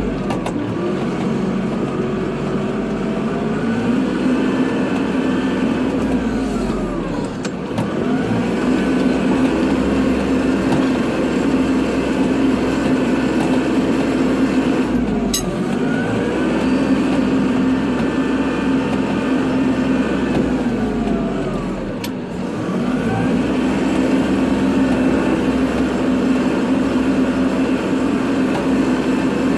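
Kubota tractor's diesel engine running steadily while plowing snow. Three times, about seven seconds apart, the engine speed sags and climbs back, each dip marked by a sharp click.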